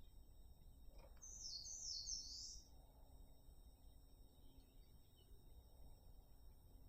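A small bird's call: a quick run of three or four high-pitched chirps starting about a second in and lasting about a second and a half, over faint steady outdoor background noise.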